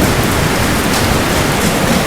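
Steady heavy rain pouring down in an even hiss.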